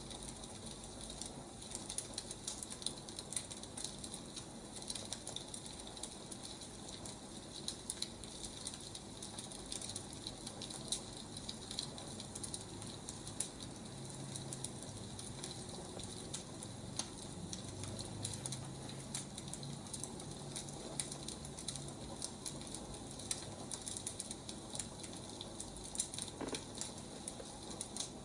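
Burning firewood crackling, with many small irregular pops and snaps over a steady hiss.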